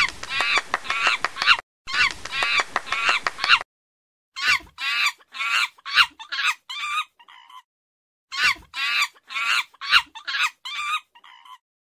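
Monkey calls: four runs of quick, repeated high-pitched calls, the last two trailing off more quietly at their ends.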